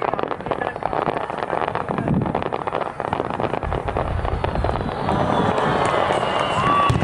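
A starmine, a rapid-fire barrage of aerial firework shells, bursting in a dense, continuous run of bangs and crackle that grows louder about five seconds in.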